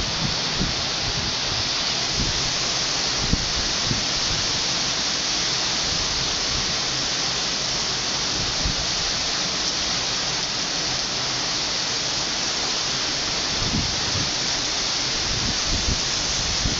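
Heavy typhoon rain pouring down steadily as a dense, even hiss, with brief low rumbles of wind buffeting the microphone, a few near the start and more toward the end.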